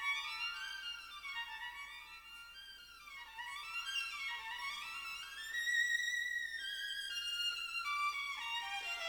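Violin music: a single high line sliding smoothly down and up in pitch, with a dip about two seconds in and a rise to a held high note around six seconds in.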